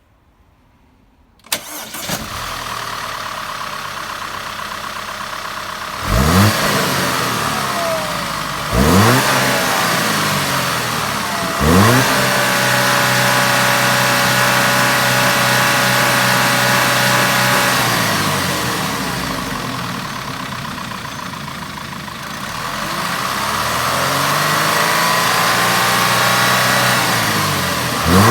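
Car engine starting about a second and a half in and settling to an idle, then revved in three quick blips. It is held at raised revs for several seconds, slowly eased down and brought back up, with one more blip at the end.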